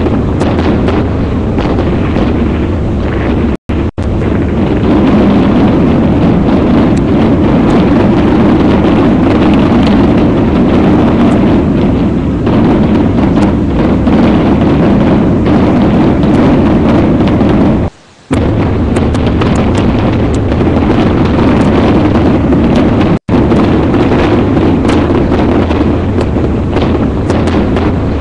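Loud continuous rumbling roar of a volcanic eruption, cutting out abruptly for a moment three times.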